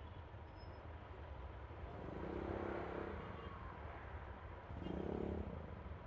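Yamaha Aerox scooter on the move: a steady low engine-and-road rumble, with two louder swells of engine sound about two seconds and five seconds in.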